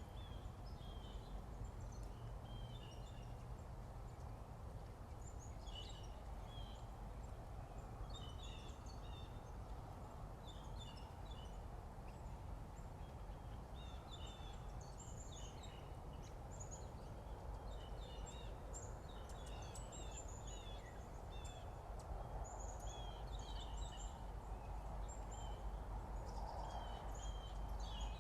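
Several small songbirds chirping and singing in a morning chorus: short, high calls overlap one another throughout, over a steady low background rumble.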